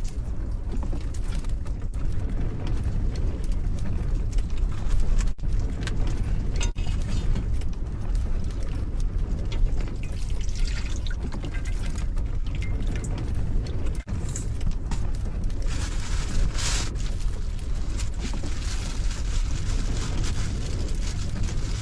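Strong gale buffeting a small camper van, a steady low rumble, with water sounds from the cooking pot over it, brightest about ten and sixteen seconds in.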